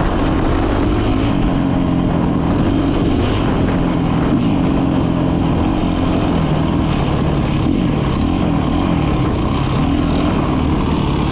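Dirt bike engine revving up and down as it rides, its pitch rising and falling repeatedly over a steady rushing noise.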